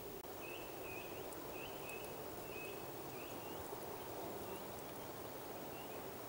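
A small bird calling: short, high chirps with a little upward flick, repeated about twice a second and growing sparser after a few seconds, over a steady outdoor hiss.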